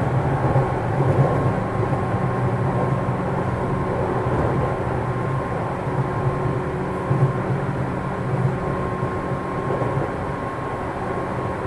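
Running sound of a JR 205 series electric train inside a motor car fitted with external-fan traction motors: a steady motor hum with wheel and track rumble at an even cruising speed.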